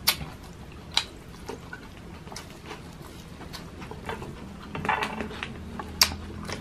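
Close-miked eating sounds: a man chewing with wet mouth smacks, with a few sharp, louder smacks standing out and a busier run of small wet clicks about five seconds in.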